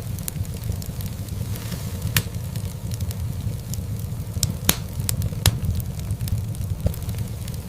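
Wood fire crackling in a fireplace: scattered sharp pops and ticks, a few of them louder, over a steady low rumble.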